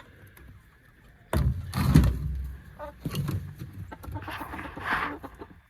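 Game chickens clucking in their pens, with a sudden loud low rumble on the microphone a little over a second in.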